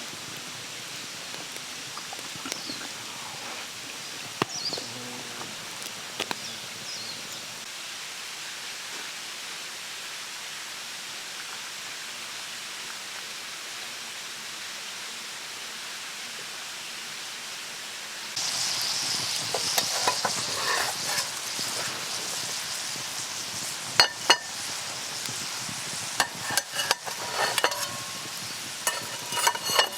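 Steady quiet hiss of the outdoor background, then about two-thirds of the way in food starts sizzling loudly in a hot pan. Toward the end come sharp metal clinks of a utensil against the pan.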